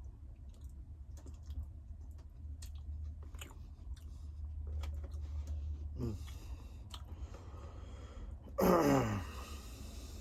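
A person chewing food: small, irregular mouth clicks over a steady low hum. Near the end comes a louder, brief sound that drops quickly in pitch, with a hiss.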